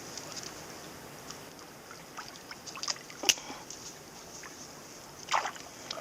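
Small forest river running as a steady hiss, with scattered clicks and knocks of handling: a sharp click a little past three seconds, the loudest, and a brief louder scrape about five seconds in.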